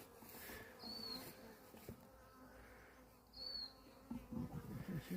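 Faint steady buzzing of a small swarm of Italian honeybees, with two short high chirps about a second in and again a few seconds later.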